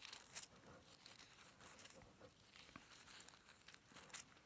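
Faint rustling and crinkling of thin Bible pages being turned to find a passage.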